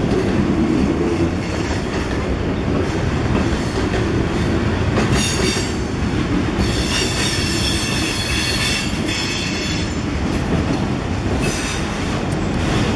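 Freight train cars, tank cars and then autoracks, rolling past with a steady rumble of steel wheels on rail. High-pitched wheel squeal rises over it from about five to nine seconds in, and briefly again near the end, as the wheels grind through the curve onto the connecting track.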